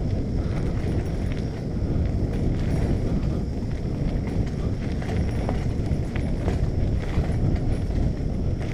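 Wind buffeting the microphone as a bicycle rides along: a steady low rumble, with scattered light clicks and knocks from the bike and camera mount rattling over the trail surface.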